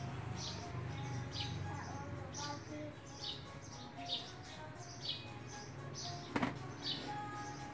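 A bird calling over and over, a short falling chirp about once a second. A single sharp click comes about six and a half seconds in.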